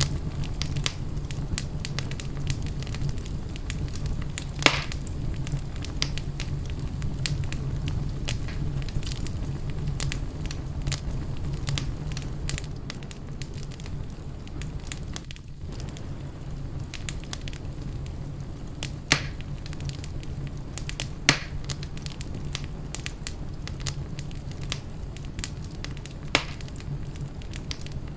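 Wood fire burning in a fireplace: a steady low rumble with constant crackling and a few louder sharp pops.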